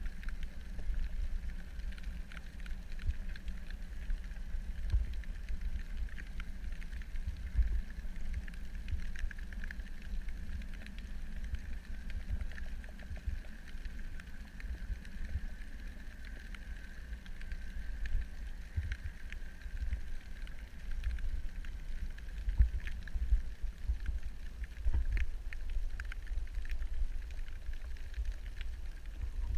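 Underwater ambient noise: a low, irregularly swelling rumble of water with a faint steady hum above it.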